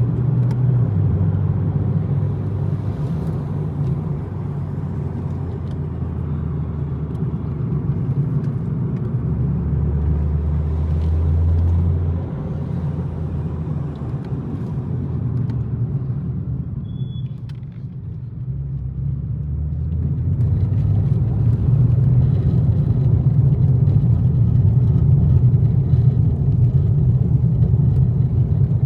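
BMW M240i's turbocharged 3.0-litre straight-six running under way, its low drone stepping in pitch. It eases off and goes quieter a little past the middle, then pulls again and is louder through the last third.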